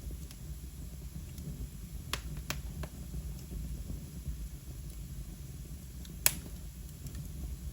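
Wood fire in a fireplace crackling. A few sharp pops come about two seconds in, and one louder pop comes about six seconds in, over a low steady rumble.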